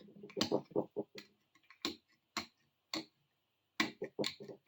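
Irregular light clicks and taps as a rusty bar clamp's metal parts are handled, about one every half second, with a quicker run of clicks near the end.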